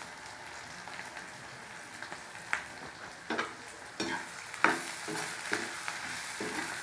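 Chopped onions and green chillies sizzling in hot oil in a kadai, a steady hiss. A spoon scrapes and knocks against the pan several times as they are stirred, mostly in the second half.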